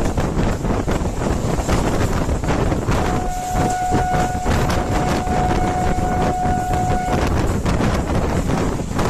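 Moving train, with loud rushing wind and rumble and a quick run of rail clatter. About three seconds in, a steady single-pitched train horn sounds for roughly four seconds, then stops.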